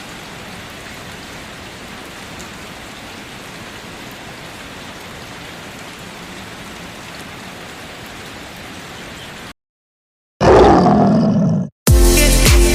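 Steady rain hiss for about nine and a half seconds, cutting off suddenly. After a short silence, a loud animal roar of about a second and a half fades away. Music with a beat starts near the end.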